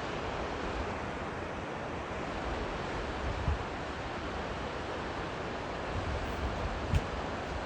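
River water rushing steadily, with two brief low thumps of wind on the microphone, about three and a half seconds in and near the end.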